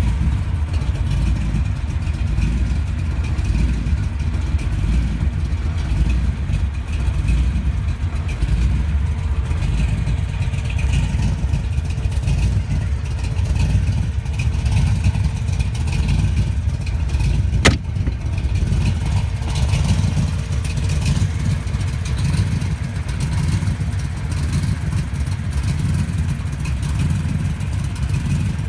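1966 Cobra's V8 engine running steadily with a low rumble, and a single sharp click about two-thirds of the way through.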